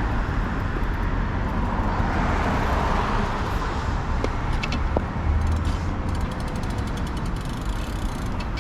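Wind rumbling on the microphone over steady road traffic noise, with light ticking in the second half.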